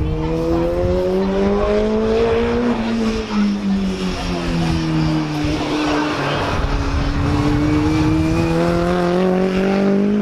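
Stock car engine running hard on a lap of the oval: the pitch climbs as it accelerates, falls away slowly into the bend, then climbs again as it accelerates out.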